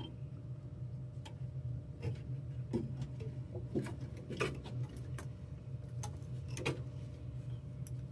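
Scattered light clicks and taps of parts, connectors and tools being handled during a furnace repair, at irregular intervals over a steady low hum.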